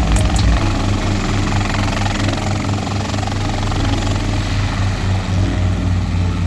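Schweizer 300 helicopter's piston engine and rotor running steadily, with a low, evenly pulsing drone.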